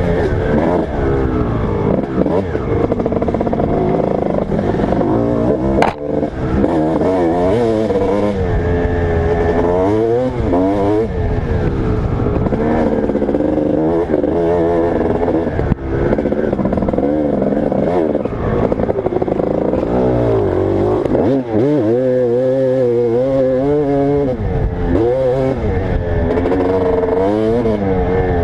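Motocross dirt bike engine under hard riding, its pitch climbing and dropping again and again as the throttle is opened and shut. A sharp click about six seconds in.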